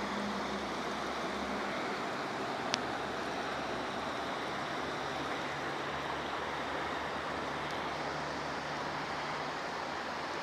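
Steady rush of the Pigeon River's flowing water, with a single sharp click a little under three seconds in.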